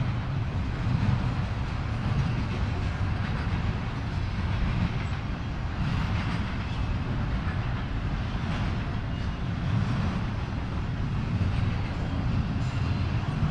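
Freight train rolling past, its cars' wheels making a steady heavy rumble on the rails.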